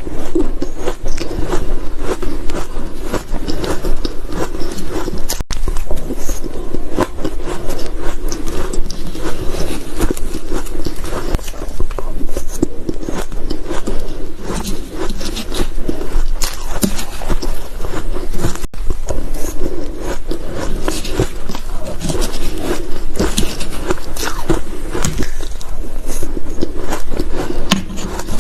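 Close-miked crunching of ice being bitten and chewed: a dense, irregular run of crisp crunches and crackles.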